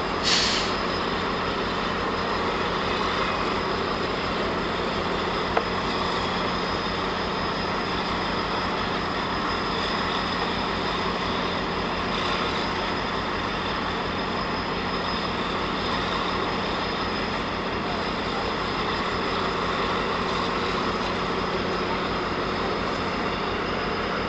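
GO Transit diesel locomotive idling steadily with a constant low drone, and a short hiss just after the start.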